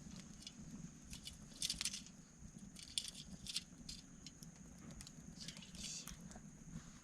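Light crackling and clicking of twigs and kindling being handled and dropped onto a small campfire, in a few scattered bursts.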